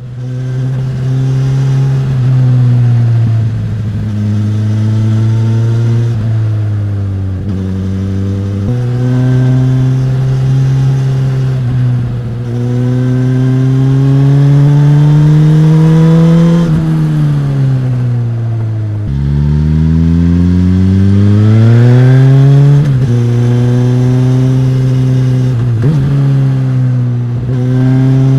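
Suzuki GSX-S1000's inline-four engine and exhaust under way, the revs climbing and then dropping at each gear change, over and over. About two-thirds through, the pitch falls for a couple of seconds and then rises steeply again.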